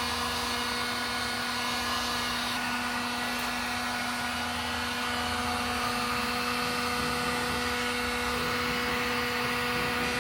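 A machine motor running steadily with a constant hum and whine over an even rushing noise.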